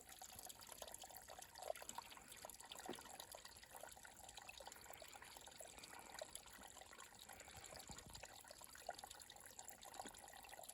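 Faint trickling running water with many small, irregular drips and ticks.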